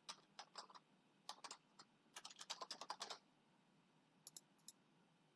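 Faint typing on a computer keyboard: a few scattered keystrokes, then a quick run of about a dozen keys, and three last light taps near the end.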